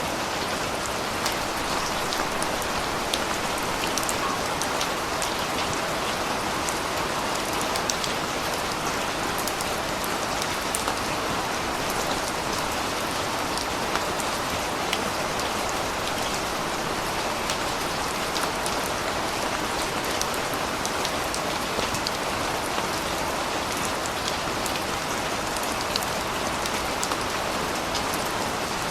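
Steady, heavy rain falling, with a dense hiss and many sharp individual drop ticks on a hard surface.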